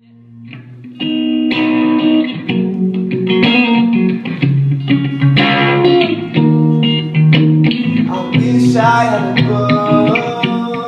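Live band playing a song's instrumental intro, led by guitar chords. It fades in over the first second and then plays at full level.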